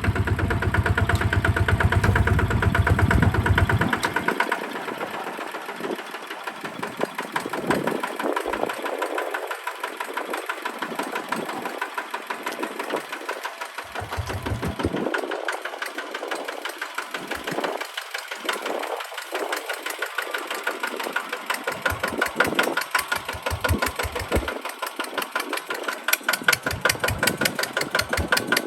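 Kubota tractor's diesel engine running with a rapid, even knocking beat. The deep low rumble drops away about four seconds in, leaving the higher clatter of the engine.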